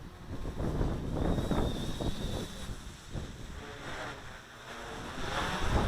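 Gusty wind buffeting the microphone, rumbling and surging unevenly, with the thin high whine of an SK450 quadcopter's electric motors heard faintly for a second or two.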